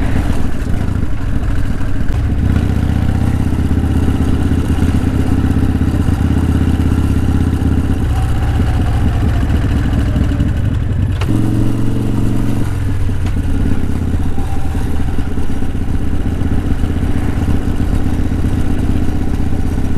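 Harley-Davidson Evolution V-twin engine of a Softail motorcycle running steadily under way, heard from the rider's position. The engine note shifts a few times, most clearly for a second or so about eleven seconds in.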